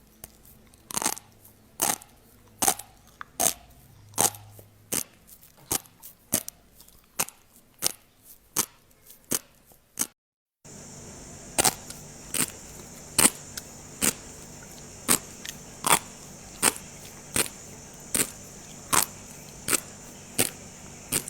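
Close-miked fish roe bursting in a steady run of crisp little pops, about one every three-quarters of a second. The sound cuts out briefly about halfway through, and the pops then continue over a steady hiss.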